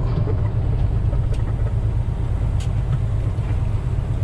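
Log truck's diesel engine running steadily with a low, even rumble, a few faint ticks over it.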